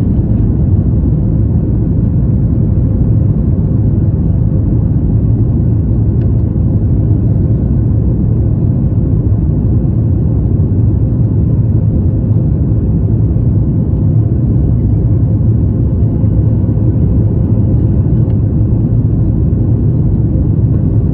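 Jet airliner cabin noise: a loud, steady low rumble of the engines and airflow heard inside the passenger cabin, with a faint steady hum on top, unchanging throughout.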